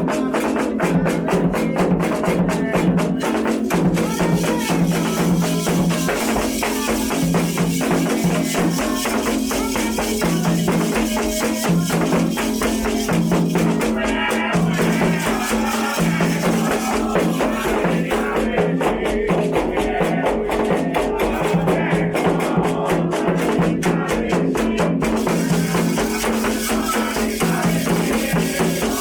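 Percussion music led by a rapidly shaken rattle, with a low sustained tone coming and going underneath, as played for Candomblé ritual.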